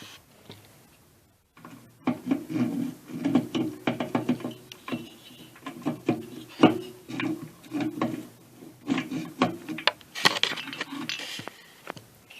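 An air compressor's piston and rings being worked into the cylinder by hand: irregular metal rubbing, scraping and clicks, starting about two seconds in and stopping near the end.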